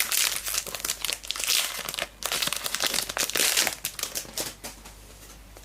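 A foil Select Footy Stars trading card pack being torn open and its wrapper crinkled and crumpled: a dense run of crackling and rustling that dies away after about four and a half seconds.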